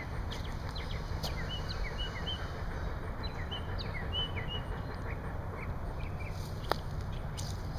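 Birds chirping outdoors: many short, high chirps and quick falling notes, over a steady low rumble. A single sharp click comes near the end.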